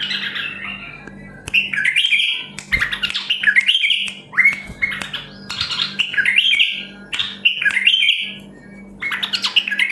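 White-eared bulbuls singing: short, quick warbled phrases of a few jumping notes, repeated one after another about every second with short gaps.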